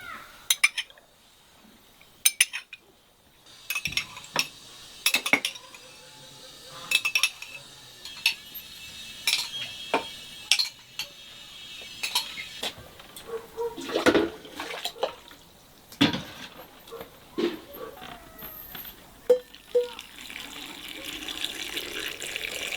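Dishes and cutlery clinking and knocking in irregular strikes, with water starting to run and splash near the end.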